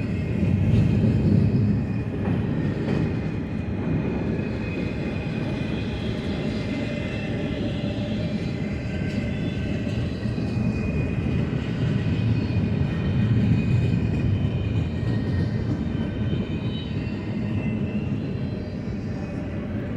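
BNSF intermodal freight train rolling past, its container cars making a steady low rumble that swells and eases, with faint high squeals from the wheels.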